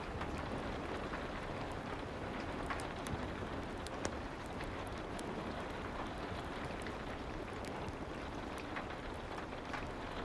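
Soft rain falling steadily, an even hiss with scattered faint sharp clicks.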